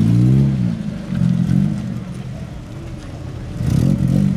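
Car engine being blipped, its pitch rising and falling a few times before settling lower, then picking up again near the end.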